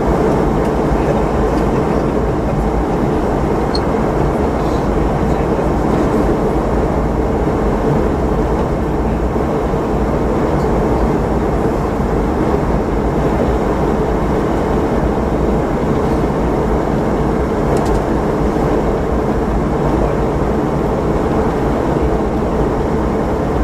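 Steady cabin noise inside a Boeing 717-200 in flight: an even rush of air with a faint steady hum from its tail-mounted Rolls-Royce BR715 turbofans.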